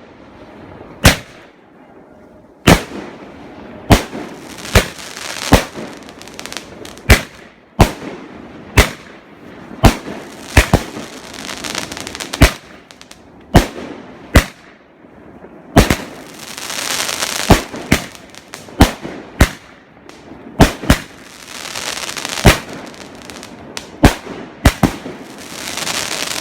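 Molten Krypton multi-shot firework cake firing a steady barrage of heavy launches, a sharp bang about once a second, with crackle filling the gaps between shots and swelling about two-thirds of the way through and again near the end.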